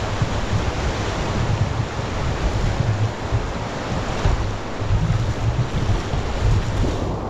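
Rogue River water rushing steadily, with wind buffeting the microphone in uneven low gusts.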